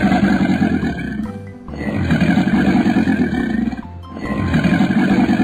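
Animated crocodile's growl sound effect: three long growls, each lasting a second or two, over background music.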